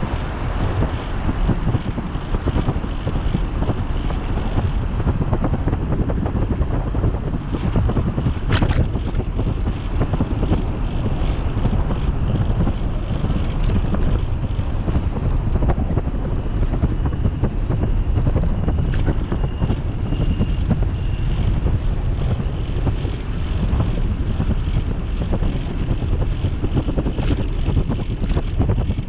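Wind buffeting the microphone of a bicycle-mounted camera while riding, a steady low rumble, with a few short clicks from the bike, one about eight seconds in and another near the twenty-second mark.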